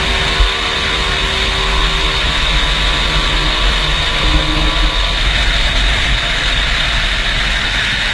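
Two-stroke motorcycle engines running, a steady drone with no clear rise or fall in revs.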